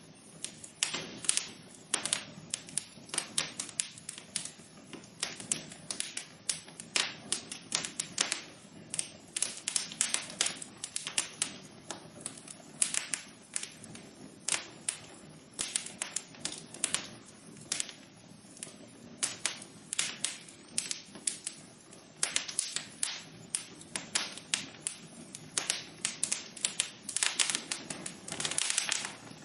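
Wood fire crackling in a fireplace: many irregular sharp pops and snaps over a soft steady hiss of burning.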